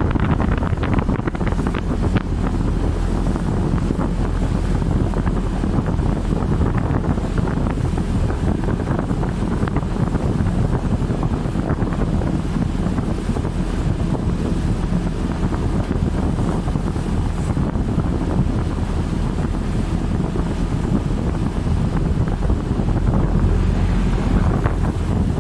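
Wind buffeting the microphone over a steady low rumble of a boat engine and rushing water, as on a small river ferry crossing.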